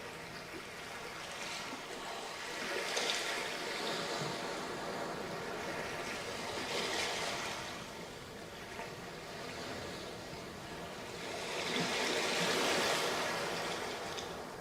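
Waves breaking on a sandy beach and washing up the shore, a steady hiss of surf that swells three times a few seconds apart, the last swell near the end being the loudest and longest.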